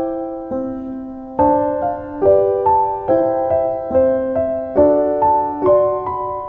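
Background music: a gentle solo piano piece with notes and chords struck every half second or so, each ringing and fading.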